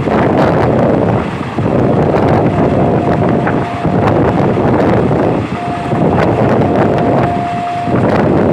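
Passenger train running along the track, heard from aboard: a steady rush of wind buffeting the microphone over the rumble of the wheels, with faint clicks. A thin, high steady whine comes in twice, briefly near the middle and longer later on.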